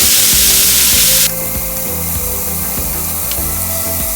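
Chicken and sausage sizzling in oil in a frying pan, with the sizzle dropping suddenly to a quieter hiss about a second in.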